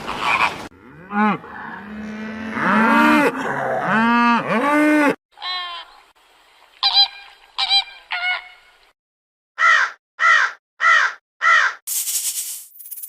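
A string of different animal calls edited back to back: several low calls that arch up and down in pitch, then a few short higher-pitched calls, then four evenly spaced harsh calls, with a hissing noise near the end.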